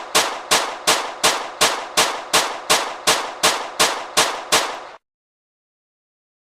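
Gunfire sound effect: a steady string of about a dozen single shots, nearly three a second, each with a short ringing decay. The shots stop at about two-thirds of the way through.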